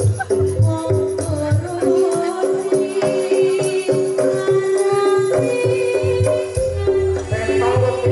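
Jaranan ensemble music: a loud, sustained reed melody of held, stepping notes over steady drumming and rattling, jingling percussion.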